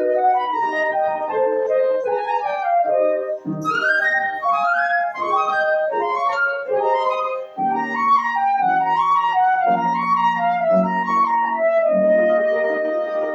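Student flutist playing a slow, lyrical melody with piano accompaniment, a classical recital piece for flute and piano.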